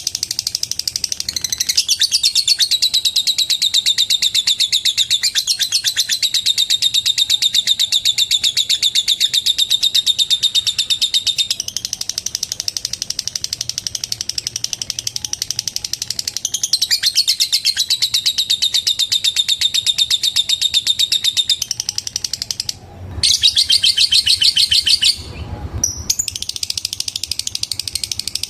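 Lovebird giving a long, rapid chattering call ('ngekek'), a fast run of high repeated notes held almost without pause, breaking off briefly once. A short low thud comes near the end.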